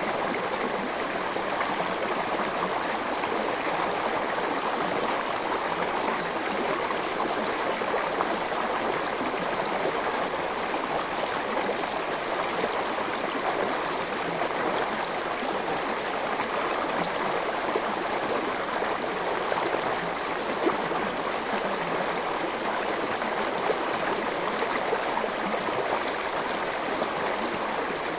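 Forest stream flowing over stones, a steady rushing and gurgling of water.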